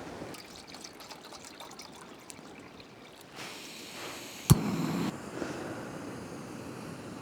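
MSR Pocket Rocket Deluxe canister stove being lit: light handling clicks, gas hissing from about three and a half seconds in, a sharp click of the piezo igniter about four and a half seconds in, and the burner catching with a brief whoosh before settling to a steady hiss.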